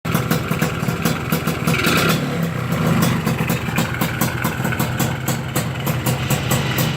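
Yamaha RX-King's single-cylinder two-stroke engine idling through a full-stainless Lobster PDK aftermarket exhaust, with a short lift in engine note about two seconds in.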